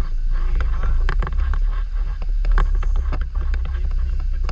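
Wind rumbling on the microphone, with many short sharp clicks scattered through it.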